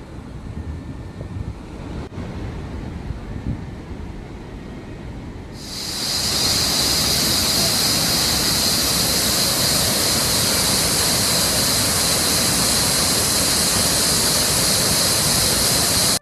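A low rumble, then about six seconds in a sudden switch to the loud, steady rush of falling water from the Düden waterfall, which holds unbroken.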